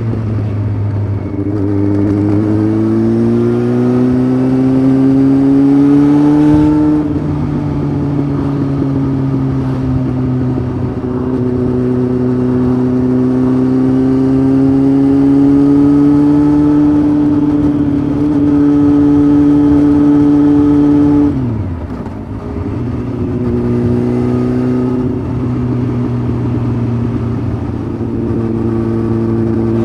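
Honda CBF 600's inline-four engine through a Roadsitalia titanium sport exhaust, ridden under way: the pitch climbs for several seconds, steps down at an upshift about seven seconds in, and holds a nearly steady cruise. A little past two-thirds of the way through it drops sharply off the throttle, then pulls steadily again.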